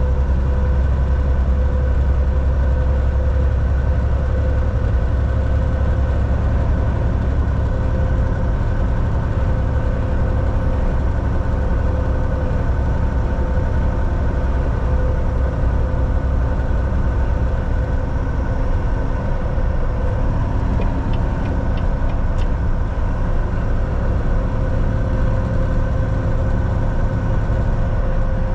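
Volvo VNL 760 semi truck driving at steady speed, heard from inside the cab: continuous engine drone and road noise with a steady hum. The deep rumble eases after the first several seconds, and a few faint clicks come about three-quarters of the way through.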